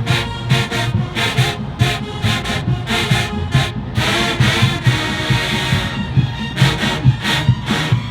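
Marching band brass and drums playing: short punched brass chords in a quick steady beat, a held chord for about two seconds around the middle, then punched chords again.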